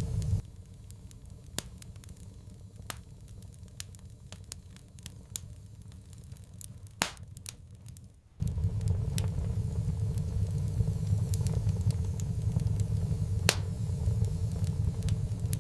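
Wood fire crackling in a fireplace, with frequent sharp pops and snaps. A low rumble under the crackle stops abruptly about half a second in and comes back just as suddenly a little past halfway.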